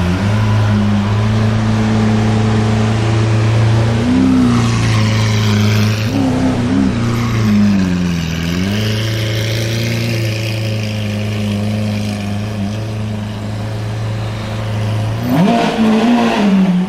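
Sports car engine running at a steady low speed, its pitch rising and falling a few times as the revs are raised and dropped, with a last rise and fall near the end.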